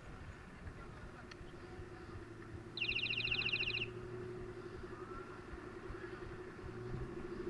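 Low, steady hum of a vehicle engine. About three seconds in, a rapid high-pitched trill lasts about a second and is the loudest sound.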